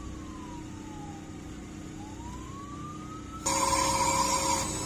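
A siren wailing faintly, its pitch falling slowly and then rising again. About three and a half seconds in, a louder steady noise with a hum cuts in abruptly.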